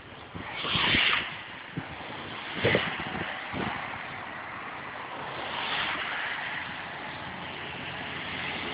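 Wind and rain noise with vehicles passing on the wet bridge road, the hiss swelling twice, about a second in and near six seconds, with a couple of short knocks in between.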